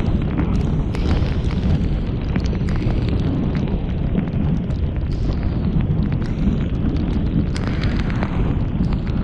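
Storm-force wind buffeting the microphone in a continuous heavy rumble, with many sharp ticks of wind-driven rain striking it.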